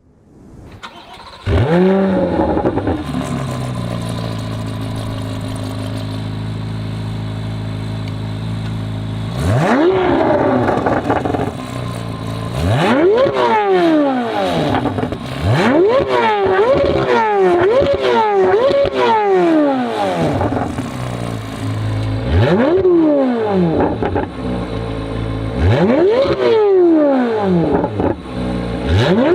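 Chevrolet C8 Corvette Z06's 5.5-litre flat-plane-crank V8, through an AWE SwitchPath exhaust with X-pipe, starting up about a second and a half in with a rev flare. It settles to a steady fast idle, then is revved: once at about ten seconds, then a run of quick blips about a second apart, then a few more spaced revs near the end.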